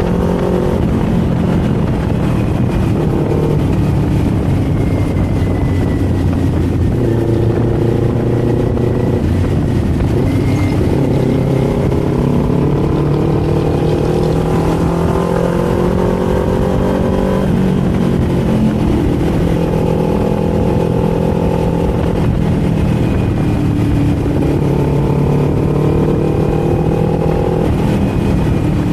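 Kawasaki Z400's parallel-twin engine and exhaust under way on the road. The pitch climbs with the throttle and drops back at each gear change, several times over, and then holds a steadier cruise, over a constant rush of wind and tyre noise.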